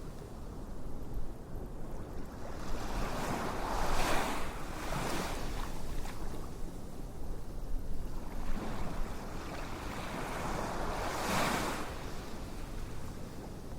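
Ocean waves washing in on a shore, a steady hiss of surf that swells and fades several times, loudest about four seconds in and again near eleven seconds.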